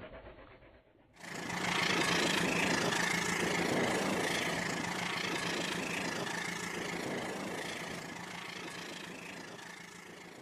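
Battery-powered toy train running with a steady motor drone that starts suddenly about a second in and slowly fades away.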